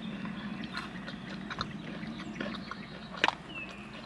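Close-up mouth sounds of someone chewing soft, creamy mac and cheese: irregular wet smacks and small clicks, with one sharper click about three seconds in, over a steady low hum.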